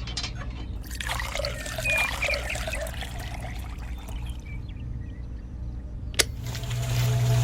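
Liquid pouring and trickling for a few seconds over a steady low hum. Near the end there is a click, and then a small motor starts with a louder steady hum.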